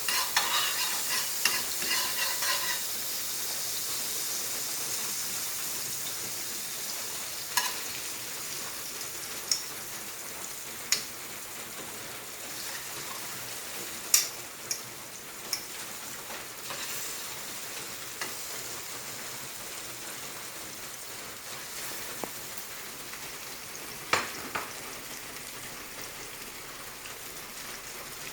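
Bread toasting in a hot pan, sizzling with a steady hiss and a few sharp pops and clicks, with busier stirring or scraping strokes in the first few seconds.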